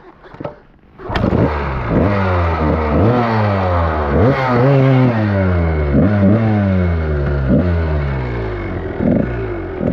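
Dirt bike engine revved hard in repeated bursts on a steep climb, starting suddenly about a second in. Each burst jumps up in pitch and then sags under load, about once a second.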